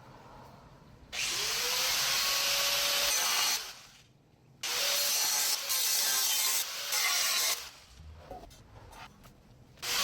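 Angle grinder fitted with a worn-down grinding disc cutting through steel exhaust pipe to remove the mufflers. It runs in two stretches of a few seconds each, its whine climbing as it spins up, with short pauses between.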